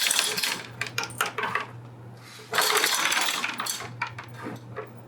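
Metal clinking and rattling from the engine, chain and tools while the engine is worked out of the car, over a steady low hum, with a louder scraping rush about two and a half seconds in.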